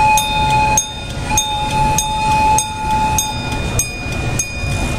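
Small ride-on train rolling along its track, its wheels clacking over rail joints in an even rhythm of about one click every half second or so over a low rumble. Two steady high tones sound alongside and drop out briefly a few times.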